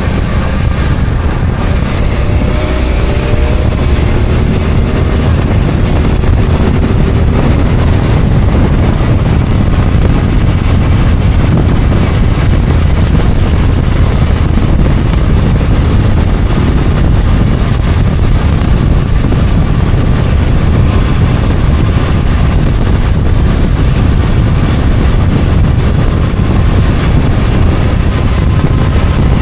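BMW F800GS 798 cc parallel-twin engine running under way, its note climbing during the first few seconds as the bike accelerates, under a heavy low rumble of wind and road noise.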